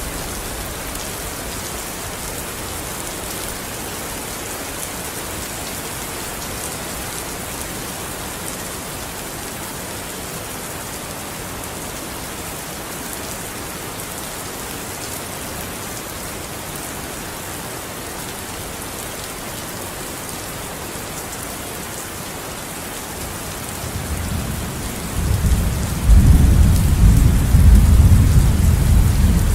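Steady rain falling, with a low rumble of thunder building about 24 seconds in and rolling loudly through the last few seconds.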